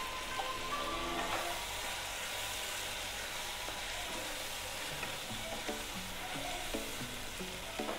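Chicken and onions frying in oil in a kadai, a steady sizzle, with the pan being stirred as ground spices go in.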